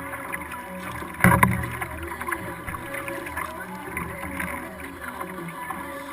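Water sounds around a kayak being paddled, a steady busy wash full of small ticks and bubbles. A single loud knock rings briefly a little over a second in.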